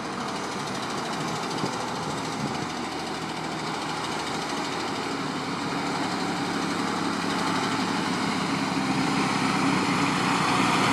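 Ford digger truck's 5.9 Cummins diesel engine running steadily, growing gradually louder toward the end.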